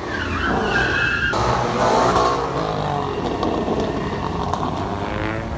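Car engine revving hard with tires squealing, as at a burnout or sideshow. The pitch rises and falls, and a high squeal is held for about a second and then cuts off.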